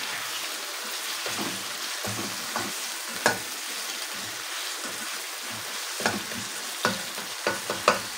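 Mutton karahi in tomato masala sizzling in a granite-coated wok while it is stirred with a spatula. Several sharp knocks and scrapes of the spatula against the pan come over a steady frying hiss, most of them in the second half.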